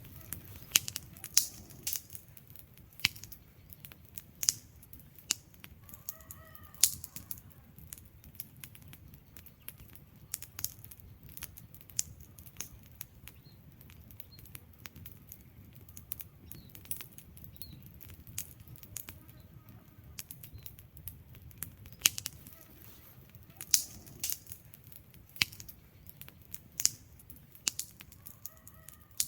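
Wood logs burning in a fireplace, crackling with irregular sharp pops and snaps, some much louder than others, over a low steady rumble of the flames.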